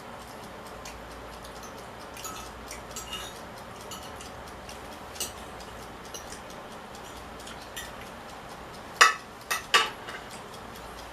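Eating sounds from a plate of mussels and pasta: scattered light clicks of shells and cutlery, then three sharp clacks close together about nine seconds in.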